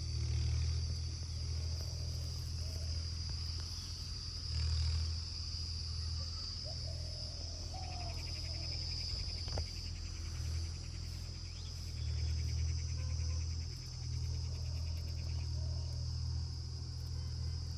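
A steady low rumble that swells and fades, with insects trilling high above it and a few faint short chirps.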